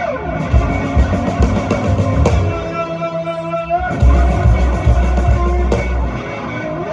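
Live blues-rock band playing an instrumental passage: electric guitar over bass and drums. Midway the drums and bass drop out for about a second and a half while a held chord rings, then the full band comes back in.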